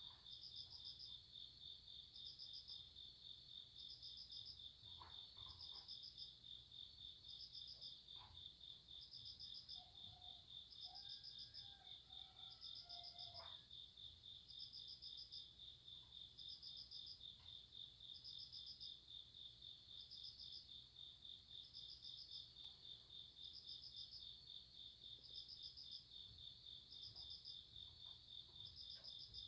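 Summer-night grass insects: crickets keep up a continuous high trill, while a second insect chirps in short pulsed bursts about once a second. Faint overall.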